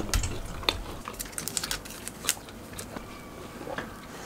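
A person chewing and biting into jam-spread bread: a string of small wet clicks and crackles, most of them in the first two seconds.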